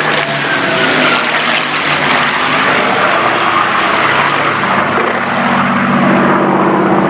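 Avro Lancaster's four Rolls-Royce Merlin piston engines droning as the bomber flies past. A high whine falls slowly in pitch in the first couple of seconds, and the low engine hum grows stronger in the second half.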